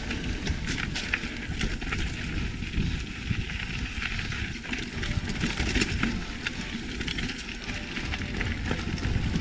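Mountain bike being ridden over a dirt trail: a steady rumble of tyres and rushing air, with frequent short rattles and clicks from the bike.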